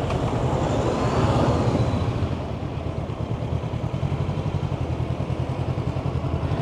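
Honda CB500X parallel-twin engine running as the bike rolls slowly in, then settling to a steady, evenly pulsing idle about two and a half seconds in.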